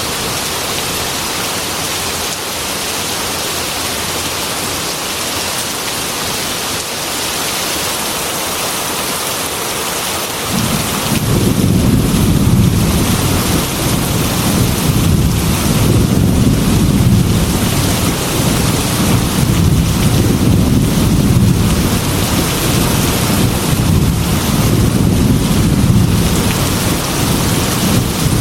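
Heavy rain on window glass, a steady hiss. About ten seconds in, a deep rolling thunder rumble sets in and keeps going under the rain.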